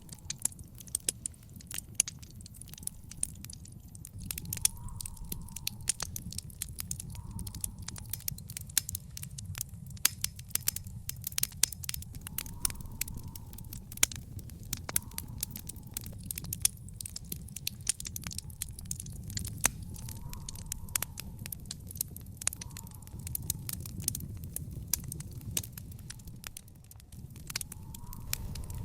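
Wood fire in an outdoor fire pit crackling, with dense sharp pops and snaps over a steady low rumble of the flames.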